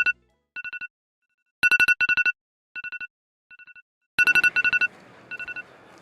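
Electronic ringtone-like trilling: short bursts of rapid beeps at one fixed pitch, some bursts loud and others fainter like echoes, with silence in between.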